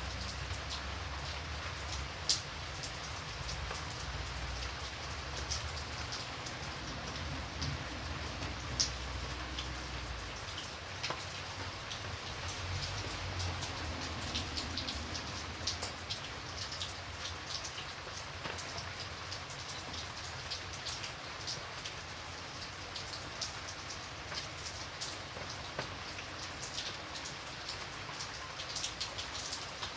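Steady rain with many separate drops ticking sharply on a hard surface close by. A faint low rumble sits under it for the first third and then fades away.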